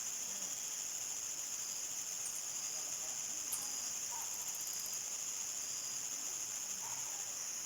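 Crickets chirping in a steady, continuous high-pitched chorus, with a few brief higher chirps and a short fast trill from other insects.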